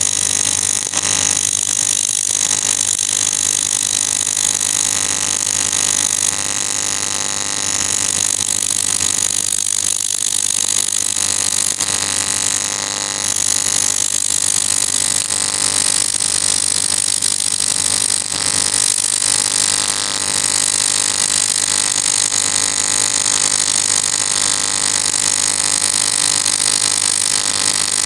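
AC TIG welding arc on aluminium: a steady buzz with a strong hiss over it, dipping briefly a few times.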